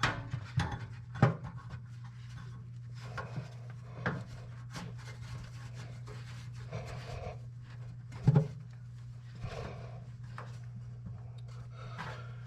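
Handling noises in a workshop: a few scattered knocks, the loudest about eight seconds in, and some rubbing, over a steady low hum.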